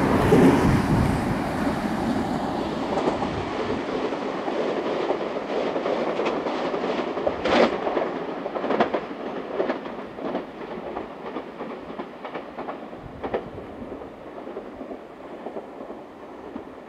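Nankai electric commuter train running and pulling away, its wheels clicking over rail joints and points; the rumble is loudest at the start and fades as the train recedes.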